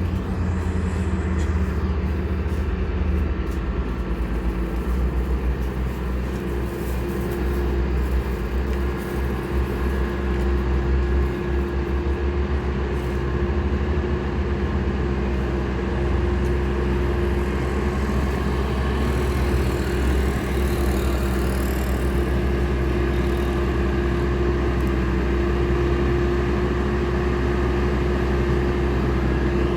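Heavy truck engine running steadily under load, a continuous low drone with a steady hum above it.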